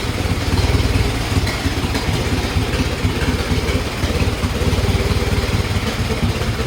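Large vintage engine of a 1914 fire truck converted into a race car, idling with a steady, rapid low pulse.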